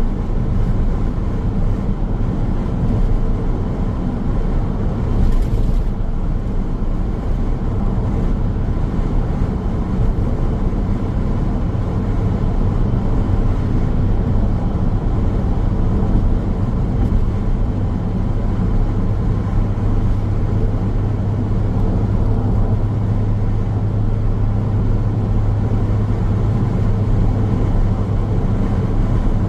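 Car driving along a highway: steady road and tyre noise with a low drone, which grows a little stronger about halfway through.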